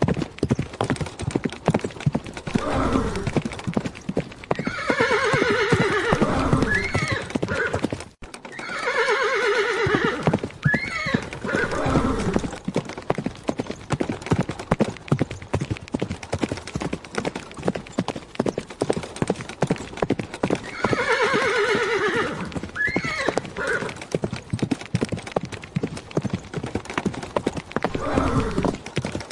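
Horse hooves clip-clopping in a quick, steady rhythm, with a horse whinnying three times: long calls that rise and fall in pitch, the first about five seconds in, the next soon after, and a third around twenty seconds in.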